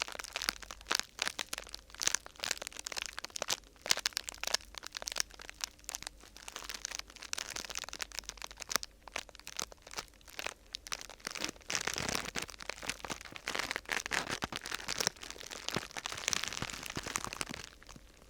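Close-up crinkling and crackling of sheet material being handled and squeezed, a dense run of small sharp crackles with fuller rustling bursts about twelve and sixteen seconds in.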